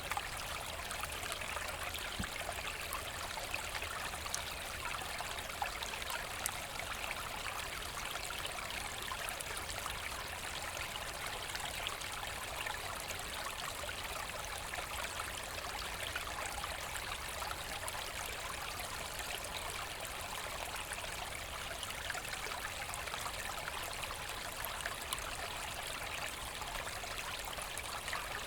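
A forest brook running, a steady rush of flowing water with small splashes and trickles mixed in.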